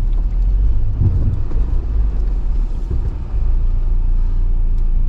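Jeep Wrangler crawling over a rocky off-road trail: a low, uneven rumble of engine and tyres, with a few light knocks.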